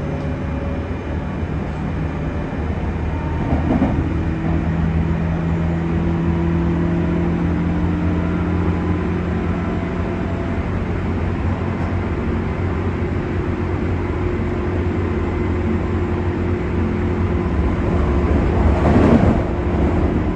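JR West 201 series electric train running, heard inside the motor car: a steady rumble of wheels on rail with an even hum from the drive. About 19 seconds in, a brief louder rushing noise swells and fades.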